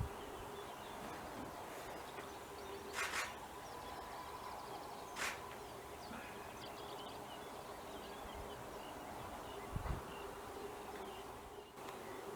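Outdoor wetland ambience: faint distant bird calls over a steady hum, with two short hissing rushes about 3 and 5 seconds in and a couple of low thumps near the end.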